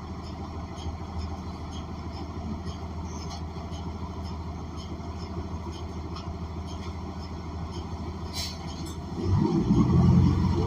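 Ride inside a New Flyer XN40 city bus with its Cummins Westport ISL G natural-gas engine: a steady engine and road rumble with a couple of sharp rattles, then a much louder rumble with a rising tone coming in about nine seconds in.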